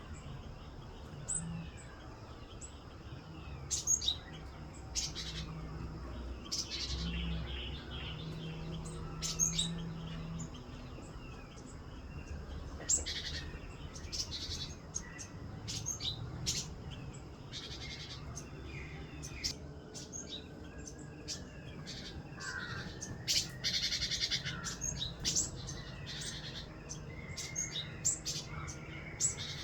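Small birds chirping: many short, sharp chirps and calls, repeated irregularly and busier in the second half, over a faint low background rumble.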